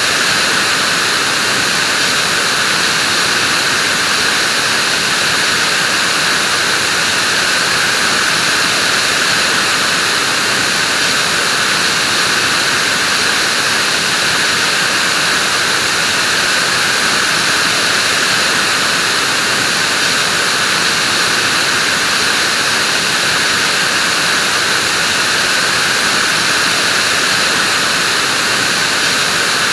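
Vacuum cleaner running steadily: a constant, unbroken whooshing hiss of the motor and airflow, strongest in the upper middle and treble.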